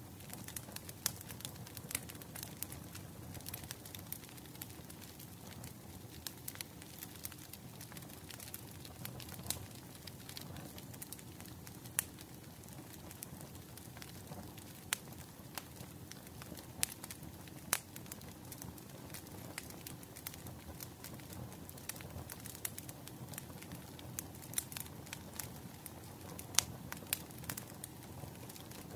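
Wood fire burning, with irregular sharp crackles and pops over a low, steady rumble of the flames.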